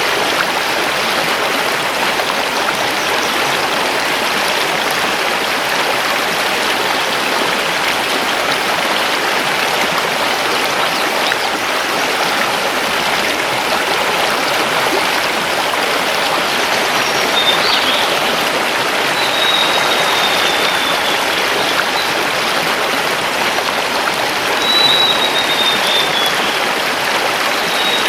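Mountain river rushing steadily over stones. A few faint, high, slightly falling bird calls sound over the water in the second half.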